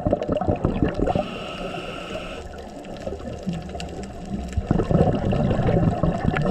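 A scuba diver breathing through a regulator underwater. A burst of exhaled bubbles is followed by a steady inhale hiss from about one to two and a half seconds in, then more bubbling exhalation near the end.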